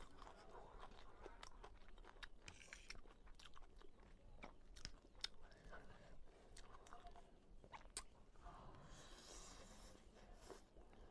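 Faint close-up chewing and crunching of a crisp papad, with many short sharp crackles through the first eight seconds. About nine seconds in, a hissing slurp as a forkful of noodles is sucked into the mouth.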